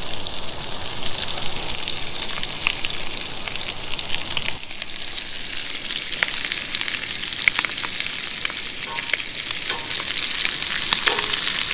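Mahi-mahi pieces frying in butter and olive oil in a small cast iron pan: a steady sizzle with many small crackling pops throughout.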